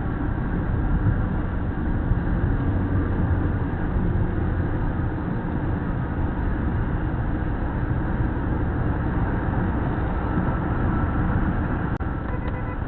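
Steady road and engine noise of a moving vehicle, a continuous low rumble.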